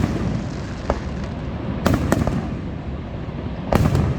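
Fireworks bursting: a sharp bang at the start, another about a second in, two close together around two seconds, and a louder burst near the end, over a steady background rumble.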